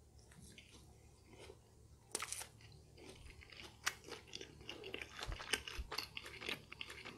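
Close-up mouth sounds of chewing a bite of a McDonald's double Hokkaido salmon burger with a breaded, fried patty: crisp crunches and wet clicks. There is a sharp crunch about two seconds in, and the chewing gets busier from about three seconds on.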